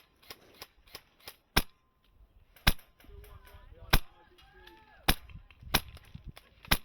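HPA-powered Wolverine MTW M4 airsoft rifle firing single shots: about six sharp cracks roughly a second apart, with a few fainter shots early on.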